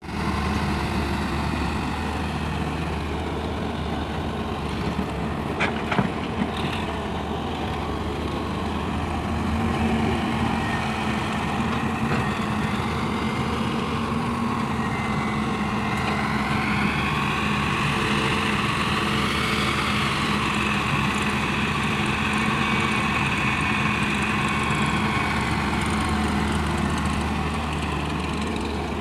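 Diesel engine of a JCB 3DX backhoe loader running steadily at work. A few sharp knocks come about five to six seconds in, and a higher whine rises and falls between about sixteen and twenty-six seconds.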